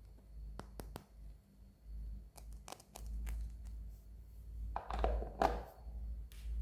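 Close-up handling of a toy and its plastic packaging: a few sharp clicks and taps, then a crinkling rustle for about a second near the end.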